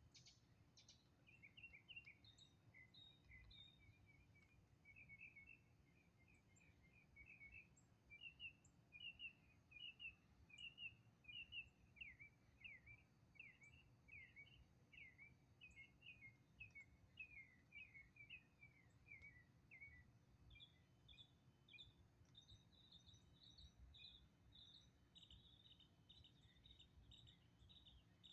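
Faint birdsong: long runs of quick, repeated chirped notes, with a faster, higher-pitched trill in the last few seconds, over a faint low background rumble.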